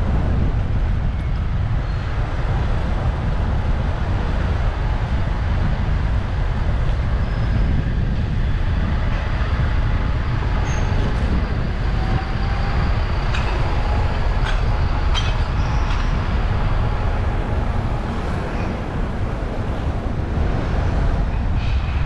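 Steady low rumble of wind on a bicycle-mounted action camera's microphone while riding, with street traffic noise underneath. A few faint clicks and a faint thin tone come through in the middle.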